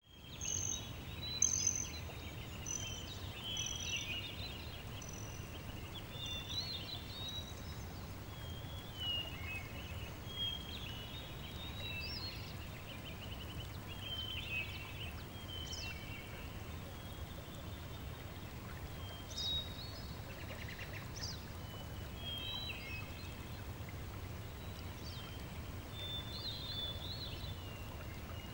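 Small birds chirping and twittering, many short high calls scattered throughout, over a steady low background noise.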